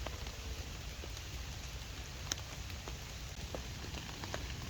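Steady rain falling, with scattered individual drops ticking onto a surface and one sharper drop about two seconds in.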